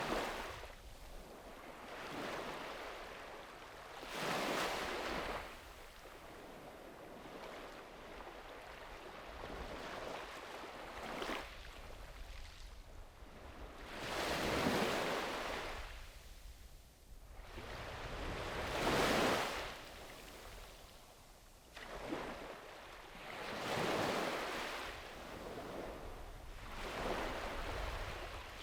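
Sea waves breaking and washing up a beach, a hissing surge every few seconds that swells and then fades.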